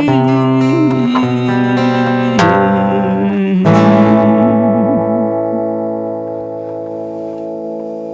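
Guitar strumming the closing chords of a song. The last chord is struck about halfway through and left to ring, fading slowly.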